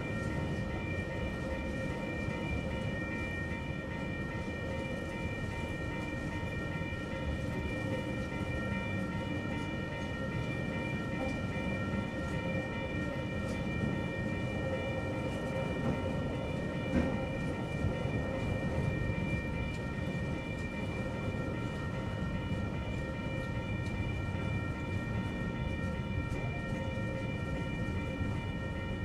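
Loaded TQAY container wagons of a slow freight train rolling over a level crossing with a steady low rumble. Over it runs a constant high ringing tone from the crossing's warning bell.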